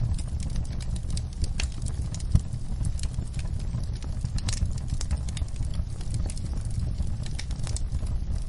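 Wood fire burning in a fireplace: irregular crackles and pops over a steady low rumble of the flames, with one sharper pop about two and a half seconds in.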